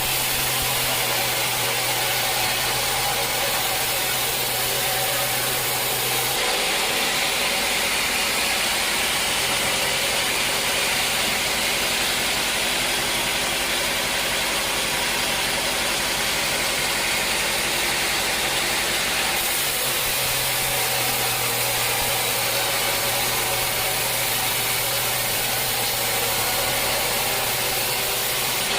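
Sawmill machinery running steadily with a loud, even mechanical noise. The low hum drops out about six seconds in and returns, and the sound shifts again near twenty seconds.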